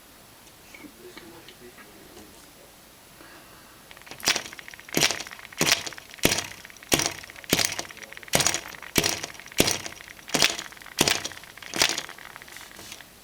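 A dozen sharp, glassy clicks or taps, roughly one and a half a second and not quite evenly spaced. They start about four seconds in and stop about a second before the end.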